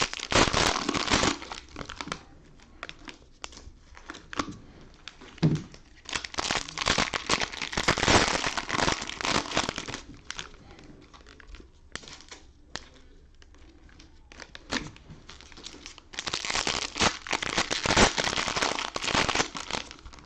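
Cellophane wrappers of trading-card cello packs crinkling and tearing as they are opened by hand, in three spells of a few seconds each with scattered light crackles between.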